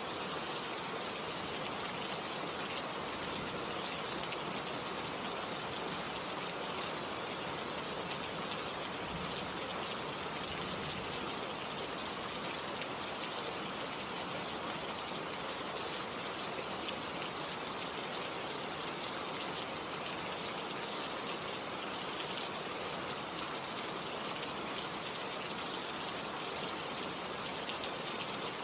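Steady rain falling, with fine scattered drop patter over an even hiss.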